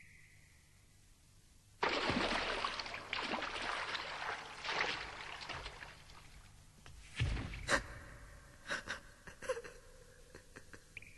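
Film sound effects: a sudden loud rushing noise that sets in about two seconds in and fades over several seconds, then a heavy thud with a sharp crack, followed by a string of shorter cracks and knocks.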